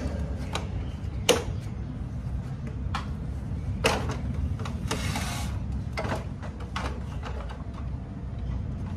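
Sharp clicks and knocks of a photocopier's panels and parts being handled while the machine is taken apart, with a short scraping rush about five seconds in, over a steady low hum.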